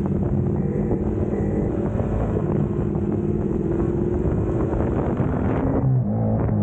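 Suzuki GSX-S150's single-cylinder engine running under way, its note slowly rising through the middle and changing abruptly shortly before the end.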